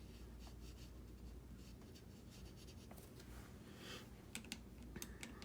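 Faint scratchy strokes of a watercolour brush laying paint onto paper, with a few light clicks near the end.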